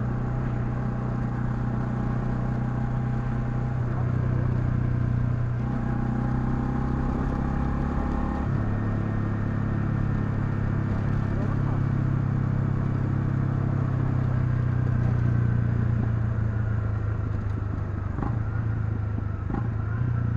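Honda CL250's single-cylinder engine running steadily as the motorcycle rides along, its note stepping to a new pitch about four seconds in and again about eight seconds in.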